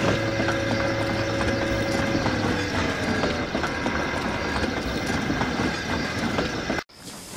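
Goods train wagons rolling past, wheels clattering over the rail joints with a steady rumble; a steady tone fades out about two seconds in. The sound cuts off abruptly near the end.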